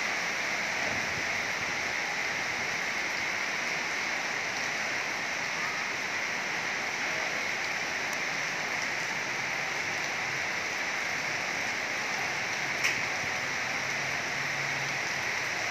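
Heavy rain pouring steadily: an even hiss of drops falling on wet pavement, with one sharp tap near the end.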